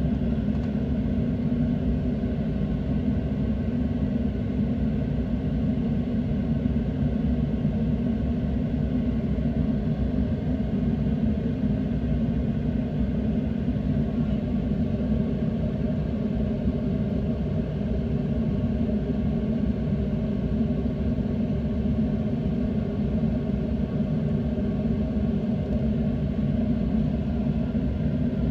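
Steady low rumble of a boat's engine running, unchanging throughout.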